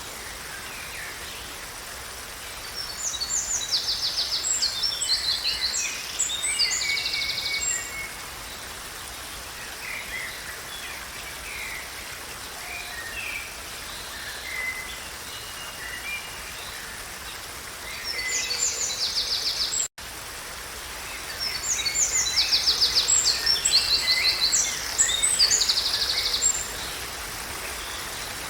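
Songbirds singing long, varied phrases of high rapid trills and chirps, coming in spells of a few seconds, over a steady background hiss. The sound cuts out for an instant about two-thirds of the way through.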